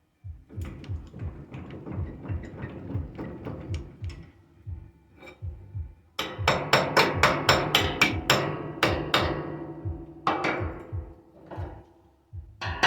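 Rapid hammering on steel, about four blows a second in runs. The blows turn louder and sharper about six seconds in, with metallic ringing, then pause briefly twice near the end.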